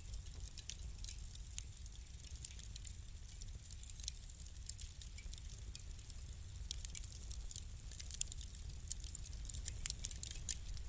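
Wood fire crackling in a fireplace: many small sharp pops and snaps, several a second, with a few louder snaps in the second half, over a low steady rumble.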